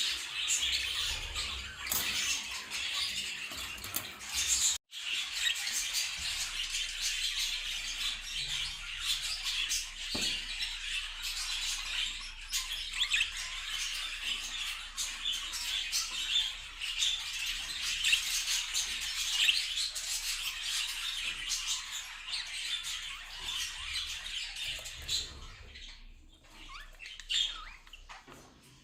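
Many budgerigars chirping and chattering together in a dense, continuous flock chatter. The sound cuts out for an instant about five seconds in and grows quieter near the end.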